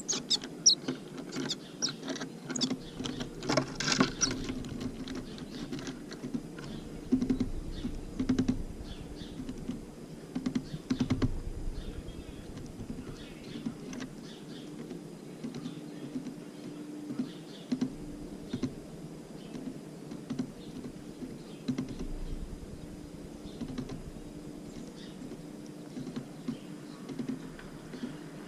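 Tits pecking and tapping at seeds on a bird feeder close to the microphone: an irregular run of sharp taps and scrapes, with a few faint high calls in the first seconds, over a low steady hum.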